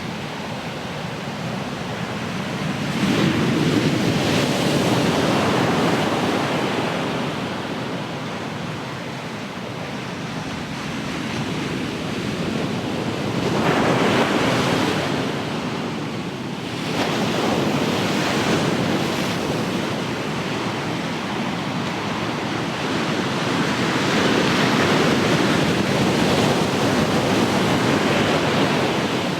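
Ocean waves breaking and washing on the shore, a continuous rushing surf that swells and ebbs, with louder surges about three seconds in, around the middle and near the end. Some wind buffets the microphone.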